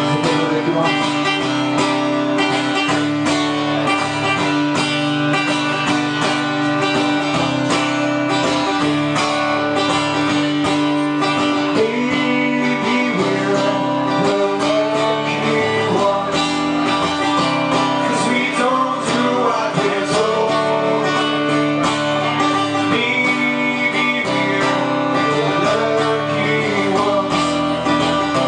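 A Celtic punk rock band playing live, guitars to the fore over a held note that runs throughout.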